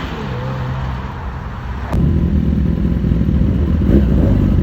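Car engine running with a low exhaust rumble, which turns abruptly louder and deeper about two seconds in.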